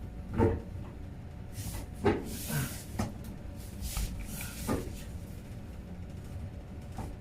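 Several short knocks and clunks, a few seconds apart, as parts of a Whirlpool HE washing machine are handled during disassembly. The loudest come about half a second and two seconds in.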